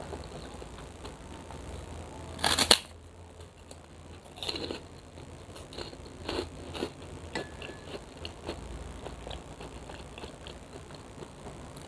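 Close-up eating sounds of a noodle mukbang: chewing with scattered small clicks and smacks, and one short loud noisy burst about two and a half seconds in.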